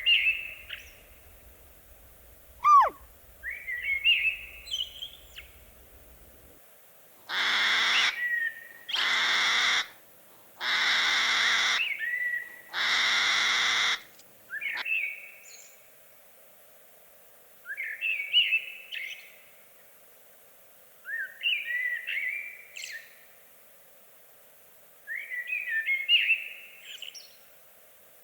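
A bird singing in short chirping phrases, repeated every few seconds, some starting with a falling whistle. In the middle come four loud, harsh calls of about a second each.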